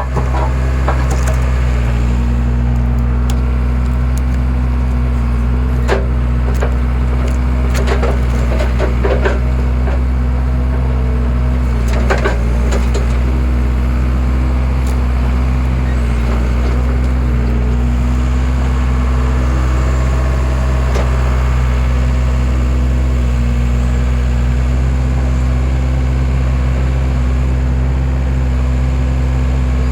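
Skid steer engine running steadily while a hydraulic log splitter forces through firewood. The wood cracks and splits with sharp snaps several times in the first half.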